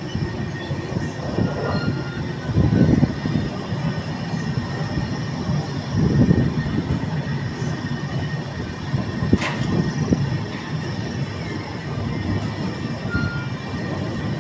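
Moving passenger train heard from an open coach door: a steady rumble of wheels running on the rails, with a faint high steady whine over it. The rumble swells louder about three and six seconds in, and there is one sharp click about nine seconds in.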